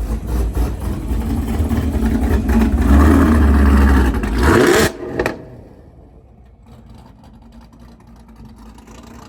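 A car engine revving hard for about five seconds, its pitch climbing just before it cuts off suddenly, then settling to a much quieter low idle.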